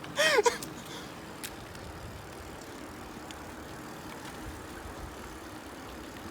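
A short vocal call right at the start, then steady road noise while riding a bicycle through streets, with a few faint ticks.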